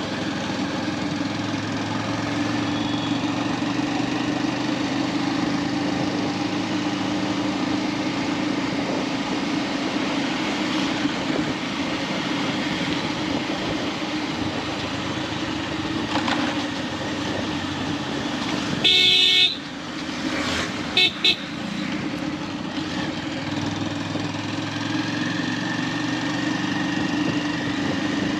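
Motorcycle engine running steadily on the move, with road and wind noise. About two-thirds of the way through a vehicle horn sounds loudly for about half a second, then two short toots follow about two seconds later.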